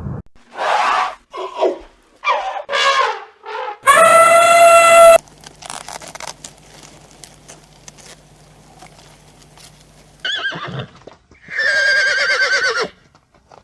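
Horses whinnying: a run of short whinnies in the first few seconds, and a longer, quavering whinny near the end. In the middle there is a loud, steady, horn-like tone lasting about a second.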